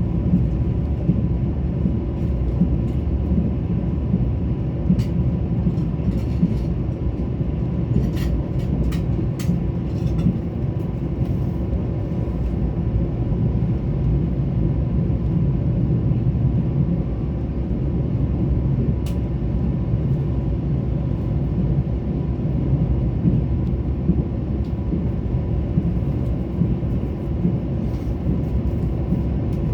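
Mugunghwa-ho passenger train running, a steady low rumble, with a few sharp clicks between about five and ten seconds in and another near the middle.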